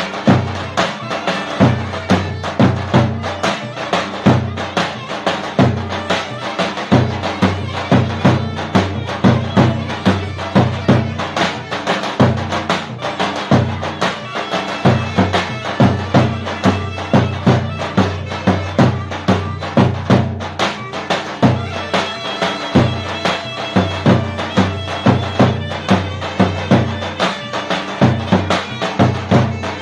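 Traditional Turkish folk dance music with a loud, reedy wind instrument playing the melody over a steady drum beat of about two strokes a second.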